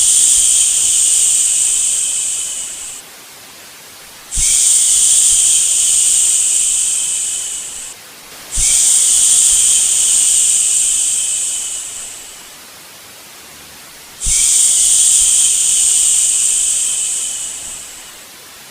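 A person shushing "shhh" to soothe a baby to sleep: long hissing shushes of about four seconds each, each fading away at its end, repeated four times with short pauses between. A faint steady hiss stays under the pauses.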